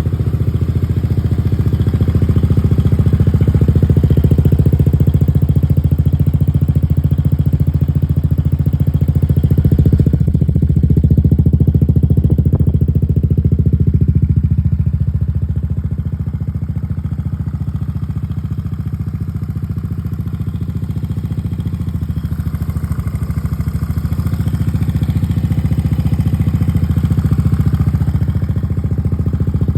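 Yamaha Cygnus X scooter's single-cylinder four-stroke engine running steadily at a low speed through an aftermarket down-type muffler; it runs a little quieter for several seconds around the middle, then picks up again.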